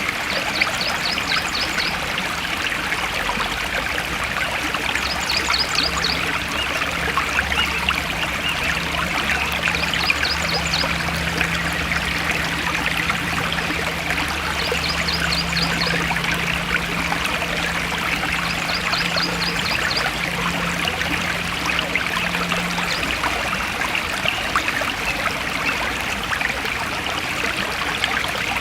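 Forest stream flowing and babbling steadily. A short, rapid, high chirping comes five times, about every four and a half seconds.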